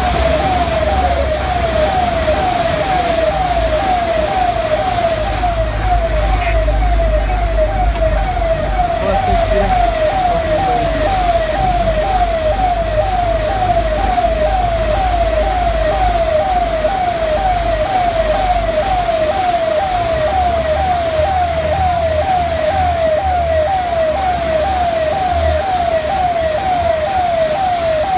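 A siren sounding a quick falling tone over and over, about twice a second, at an even level throughout. Under it are a steady hiss and an on-and-off low rumble.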